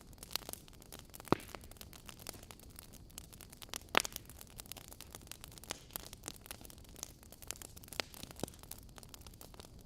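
Wood fire burning in a fireplace: logs crackling with irregular sharp pops, the loudest about a second in and about four seconds in, over a soft steady hiss.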